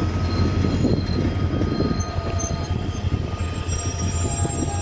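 Passenger train coaches rolling past close by: a steady low rumble of steel wheels on the rails, with thin, steady high squealing tones from the wheels.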